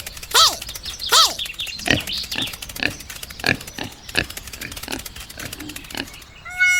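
Two short animal-like calls that rise and fall in pitch, then a quick run of short grunting sounds. Music starts near the end.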